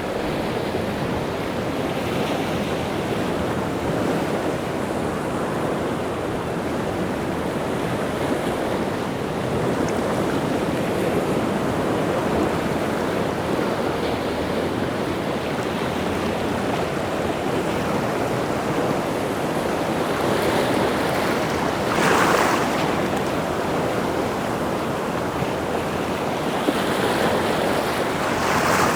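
Rough sea surf washing in continuously, with a louder wave crashing about 22 seconds in and another near the end.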